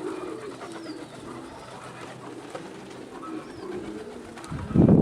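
Domestic pigeons cooing, a low wavering murmur throughout. Near the end, a loud low rumble of strong wind buffets the microphone.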